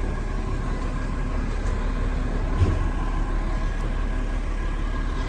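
Garbage truck running steadily: a low rumble with a faint steady whine over it, and a dull thump about halfway through.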